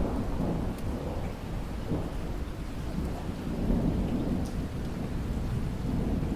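Rolling thunder rumbling over steady rain, the deep rumble swelling and fading throughout.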